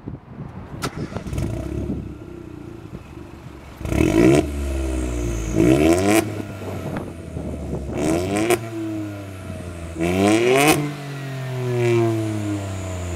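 Ford Fiesta 1.0 EcoBoost three-cylinder turbo engine, breathing through a Milltek decat, non-resonated exhaust, free-revving while stationary. It idles for a few seconds, then is blipped sharply four times, each rev rising quickly and falling back to idle, and then swells more gently near the end.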